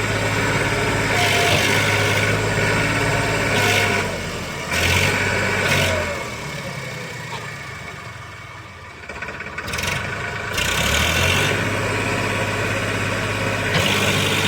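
Farmtrac tractor's diesel engine running steadily, fading to much quieter for a few seconds midway, then coming back up to full level.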